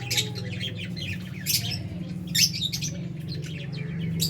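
Lovebirds in an aviary flock giving sharp, shrill chirps and squawks, the loudest about one and a half and two and a half seconds in, over a steady low hum.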